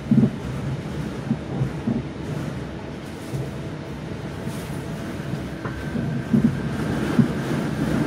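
Class 323 electric multiple unit running at speed, heard from inside the carriage: a steady rumble of wheels on rail, with a few short thumps as the wheels cross rail joints.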